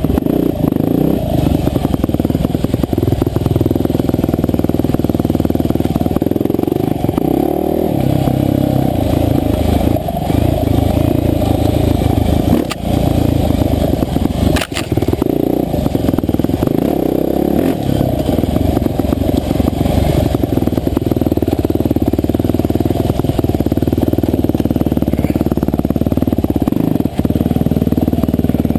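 Husqvarna TE511 dirt bike's single-cylinder four-stroke engine running under load, its revs rising and falling continuously. There are a couple of sharp knocks in the middle.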